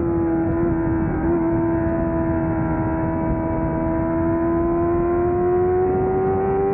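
600cc superbike engine running hard at high revs. Its pitch wavers briefly about half a second and a second in, then slowly rises as the bike accelerates, with wind rush underneath.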